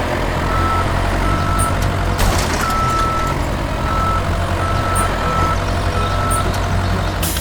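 Vehicle engine rumbling steadily under a reverse-warning beeper sounding short, unevenly spaced beeps, with a few sharp clicks. It all cuts off abruptly at the end.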